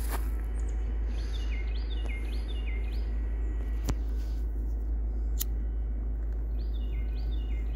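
A small songbird calling: a quick run of short chirps, each dropping in pitch, about a second in, and a second run near the end. Under it is a steady low rumble, with a couple of faint ticks in the middle.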